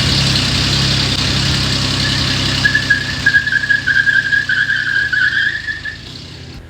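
A vehicle engine running steadily, with a wavering high squeal over it from about two to six seconds in.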